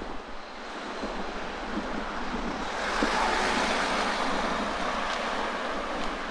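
Sea waves surging and washing ashore, a steady wash that swells to a louder surge about halfway through and slowly eases, with wind buffeting the microphone.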